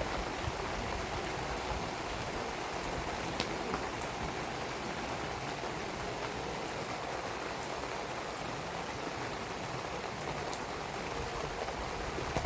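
Steady rain falling, with a few sharp crackles from a burning wood fire scattered through.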